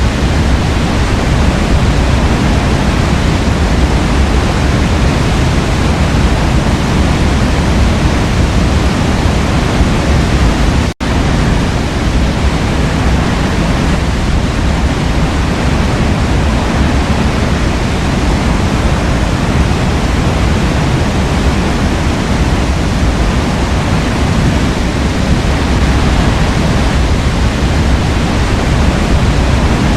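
Waterfall: steady, loud rushing of falling water, heaviest in the low end, with a split-second break in the sound about eleven seconds in.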